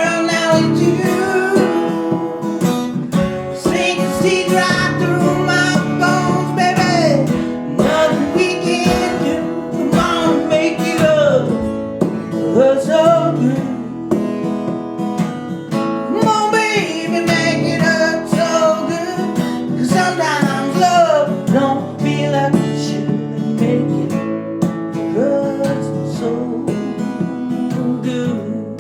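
Acoustic guitar strummed steadily, playing a song, with a bending, sliding melody line over the chords.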